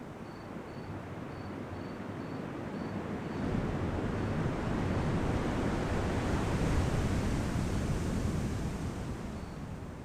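Ocean surf at night: the rush of a wave building about a third of the way in, strongest past the middle, then easing off near the end.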